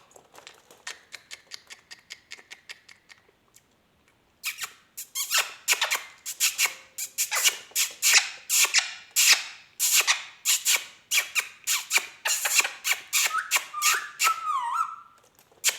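A rapid series of sharp taps and clicks, several a second, faint at first and much louder from about four seconds in. Near the end comes a short, wavering squeak.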